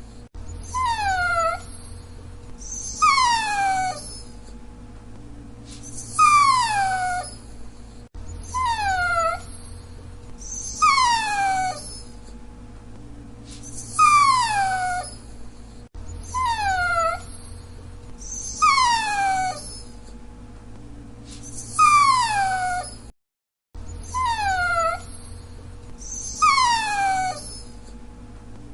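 Dachshund whining: short, high-pitched whines that fall in pitch, repeated every second or two and often in pairs. The sound drops out briefly about 23 seconds in.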